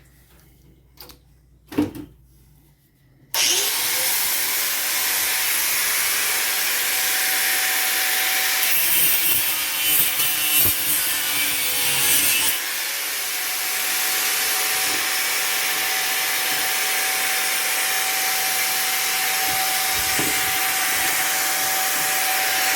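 Electric power saw cutting plastic: it spins up with a short rising whine about three seconds in, then runs steadily, with a harsher grinding stretch in the middle.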